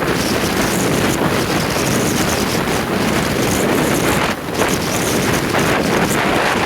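Heavy wind buffeting on the microphone over a running Yamaha DT230 Lanza two-stroke single-cylinder engine, as when the motorcycle is being ridden. A brief lull comes about four and a half seconds in.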